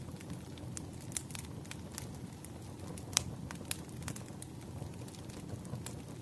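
Wood fire crackling: irregular sharp pops and snaps over a low, steady rumble, with one louder pop about three seconds in.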